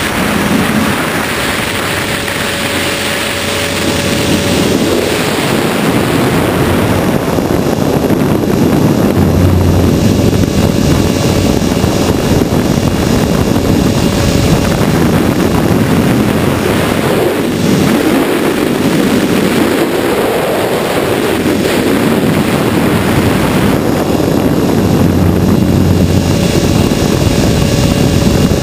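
HK500 radio-controlled helicopter in flight, its rotor and motor noise picked up by the onboard camera as a loud, steady rush with slow swells.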